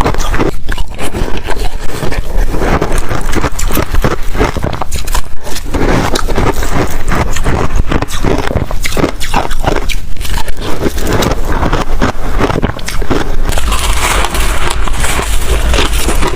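Close-miked crunching and chewing of freezer frost: dense, irregular crackling crunches, turning to a smoother, hissing crunch near the end.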